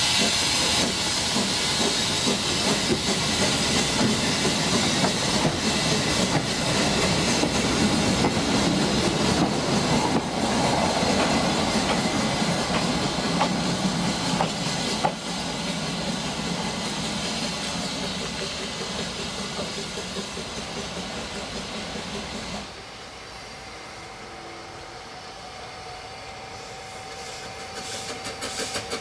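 Narrow-gauge steam locomotive and train running, with steam hissing. The sound grows fainter from about halfway, then drops suddenly to a quieter scene with a faint steady hum.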